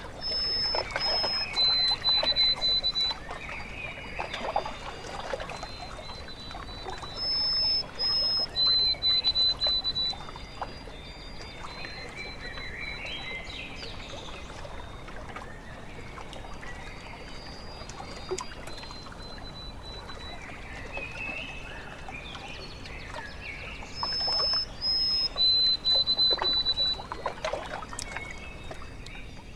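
A bird sings clear whistled phrases, a higher note followed by a lower held one, three times about eight and fourteen seconds apart, with softer calls from other birds in between. Behind it runs a steady wash of lake water lapping.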